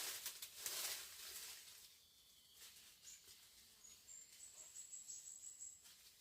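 Faint rustling and crackling for about the first two seconds, then a high, thin trill from about four seconds in until near the end.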